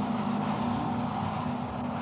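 Superbike racing motorcycle engine running at speed, a steady drone whose pitch holds nearly level.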